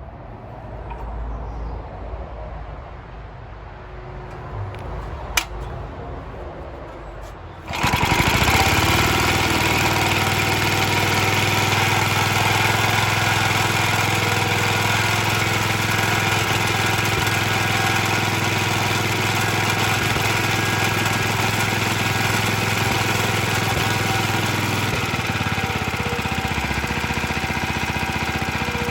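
Early 1950s Suffolk Iron Foundry Model 1A small engine, cold, catching about eight seconds in and then running steadily and a little rattly, now fed through a carburettor taken from a scrap Suffolk engine after its own carburettor passed no fuel.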